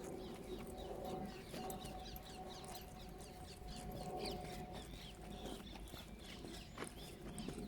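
Birds chirping and singing in many short, quick calls, over a faint steady hum and low rumble.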